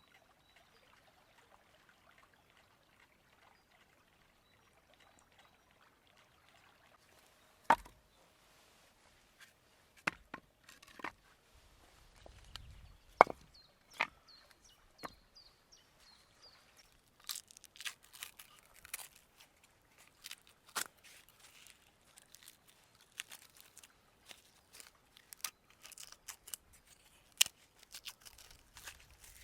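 Knife chopping on a wooden cutting board: a few separate sharp knocks, then a faster, irregular run of light taps through the second half.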